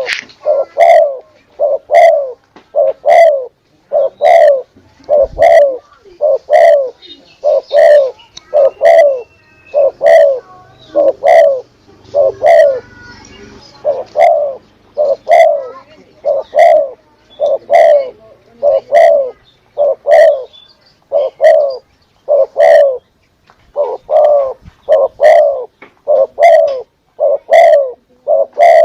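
Spotted dove (derkuku / tekukur) cooing: short arched coos repeated about once a second in an even rhythm, a recorded lure call used to attract doves.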